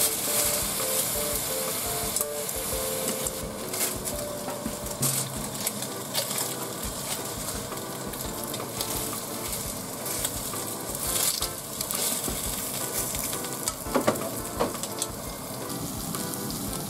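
Sake-lees-marinated cod fillets sizzling in a frying pan after a splash of sake for steam-frying, the sizzle a little louder at the start, with a few light clicks against the pan.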